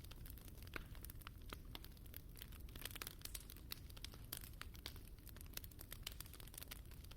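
Wood fire burning in a fireplace: many small irregular crackles and pops over a low steady rumble of the flames.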